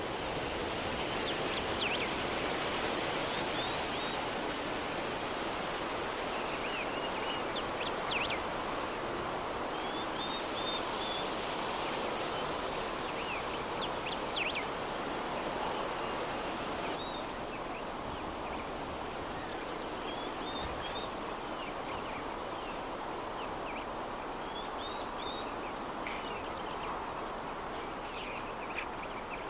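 A soft, steady breeze with small birds chirping in short clusters every few seconds.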